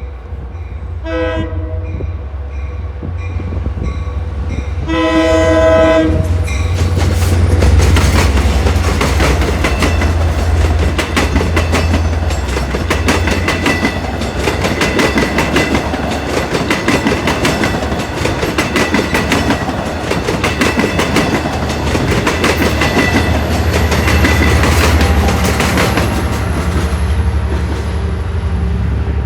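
Train horn sounding a short blast and then a longer one, followed by a passing train: steady wheel clatter over the rail joints over a low rumble.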